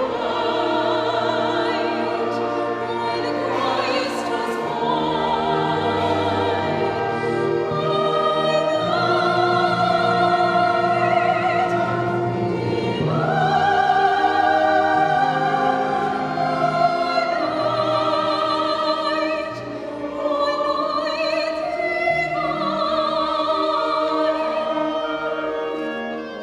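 Classical singing with vibrato, long held notes over an orchestral accompaniment, with a short dip in the music near the middle.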